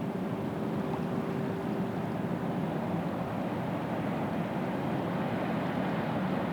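Steady drone of a passing cargo vessel's engine over the water, with a faint even hum that fades out about two seconds in.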